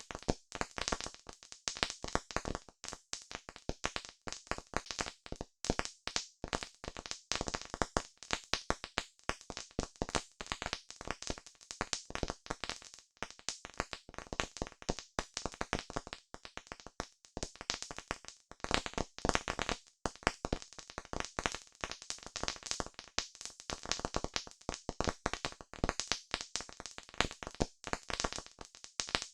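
Wood campfire crackling, a dense run of irregular sharp pops and snaps.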